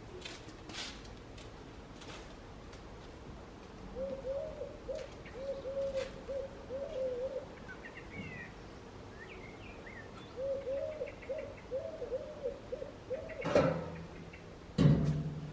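A bird giving low, cooing hoots in two runs of quick repeated notes, with a few faint higher chirps between them. Two loud knocks near the end.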